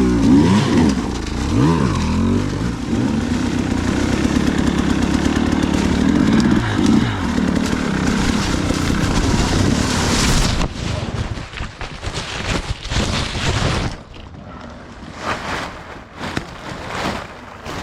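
Dirt bike engine revving hard, its pitch rising and falling as the throttle is worked on a steep trail climb. About ten seconds in the engine sound breaks off into a run of knocks and scrapes from a fall. The crash snaps the GoPro off its mount.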